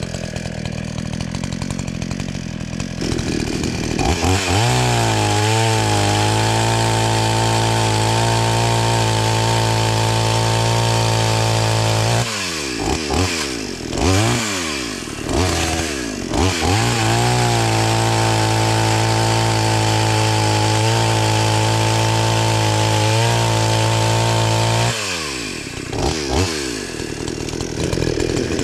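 Chainsaw idling, then held at full throttle in two long runs of about eight seconds each while cutting a downed tree into firewood lengths, with the revs dropping and blipping up between the runs and again near the end.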